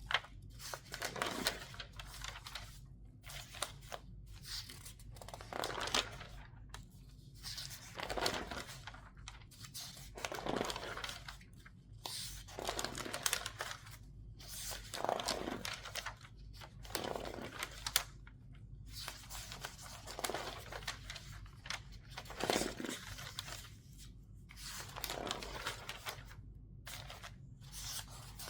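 Newspaper pages turned quickly one after another, about one a second, each turn a papery rustle and crinkle as the sheets are squeezed. The recording is lo-fi, with a steady low hum underneath.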